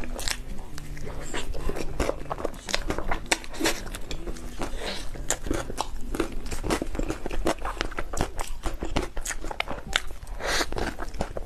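Close-miked eating sounds: mouth clicks, lip smacks and chewing on a bite of mille crêpe cake, a dense irregular run of clicks with some crunches.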